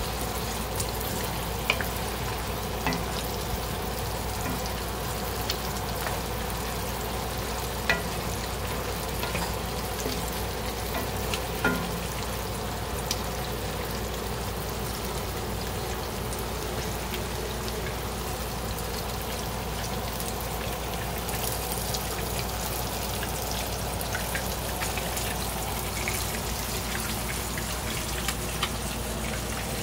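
Beef and broccoli in sauce sizzling steadily in a cast-iron skillet while a wooden spoon stirs them, with a few sharp clicks of the spoon against the pan.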